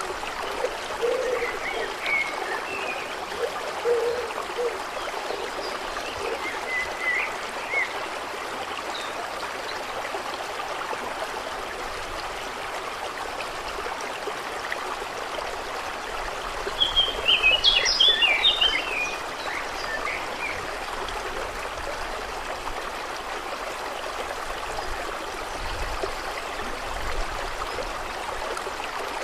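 Steady lapping and trickling water of a lake, with birds chirping. A few short chirps and low calls come in the first several seconds, and a brief burst of birdsong about 17 seconds in stands out loudest.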